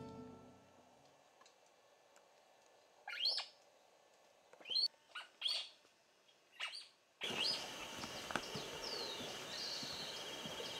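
Wild birds giving short, separate calls over near silence as background music fades out. About seven seconds in, a forest chorus starts abruptly, with a steady high trill and more bird notes over it.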